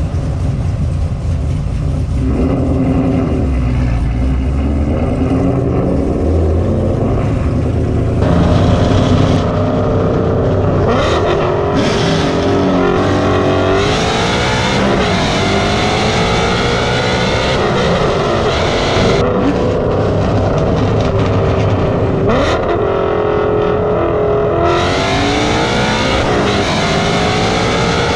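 High-performance car engines accelerating hard in a roll race, the engine pitch climbing and then dropping sharply at each upshift, several times over.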